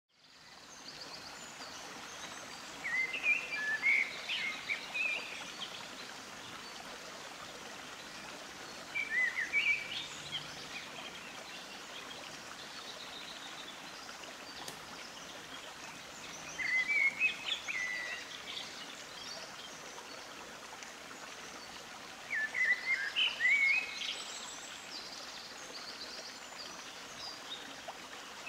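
Birds singing over a steady hiss: a short burst of chirping notes about every six seconds, four times.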